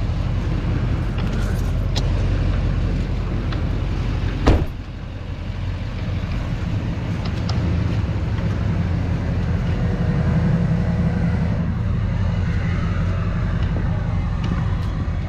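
Diesel tow truck's engine running steadily, with one sharp knock about four and a half seconds in.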